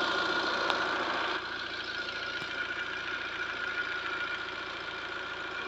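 A vehicle engine idling steadily, with a thin high whine held over it; the sound drops a little in level about a second and a half in.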